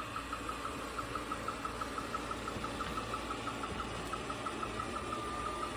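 iRobot Roomba 105 robot vacuum running: a steady motor whir with a quick, even ticking, about five ticks a second.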